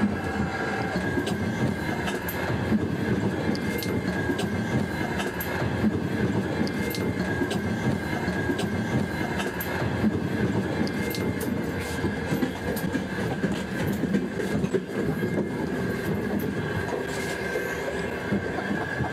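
A passenger train running: a steady rumble of wheels on rails with a thin steady whine and scattered clicks and knocks, heard from inside a carriage.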